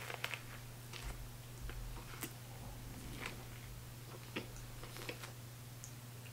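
Faint biting and chewing of a McDonald's crispy chicken sandwich: scattered soft crunches and wet mouth clicks over a steady low hum.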